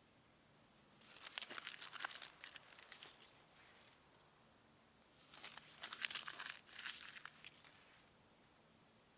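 Two spells of quiet crinkly rustling, about a second in and again about five seconds in, each lasting two to three seconds, as of stiff fabric or a bag being moved in a small enclosed space.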